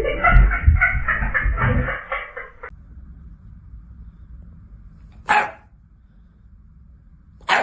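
A dog making noises over low thumps for the first two to three seconds, then quiet broken by two short, sharp sounds, one about five seconds in and one at the end.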